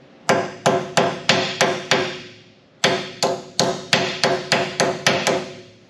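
A hammer striking sheet steel, shaping a patch panel: two runs of sharp blows, about six and then about eight, roughly three a second, each with a short metallic ring.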